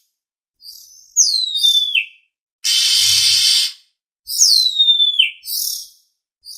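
Oriental magpie-robin (kacer) song played as a lure call: two loud whistled notes, each sliding down from high to low, with a harsh rasping call of about a second between them and shorter chirps around them.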